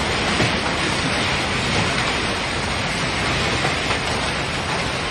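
Heavy hail falling in a dense, steady downpour, a continuous hiss with no single strikes standing out.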